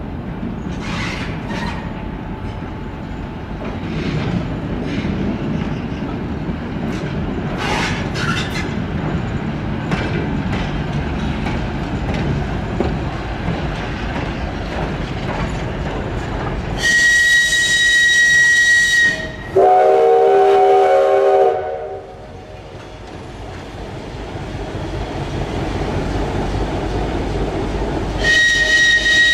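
Rail-yard shunting with a steam locomotive: a steady rumble and hiss with occasional clanks and knocks. About 17 s in, a loud high locomotive whistle sounds for about two seconds, followed at once by a lower multi-note horn chord for about two seconds. Near the end the high whistle sounds briefly again.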